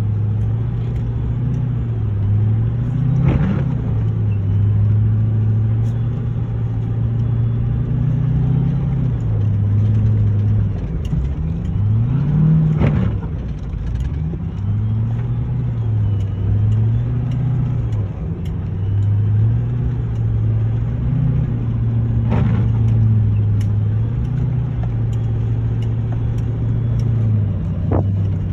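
Motor vehicle engine running steadily, its pitch dropping and climbing again several times, with a few brief swells of noise.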